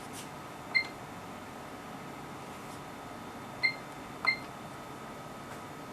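Three short, high electronic beeps from the HP 3245A's front-panel beeper, about a second in and twice close together near four seconds, over a faint steady instrument hum.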